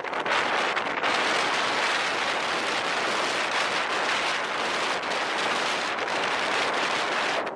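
Steady rushing noise of wind on the microphone of a moving motorbike.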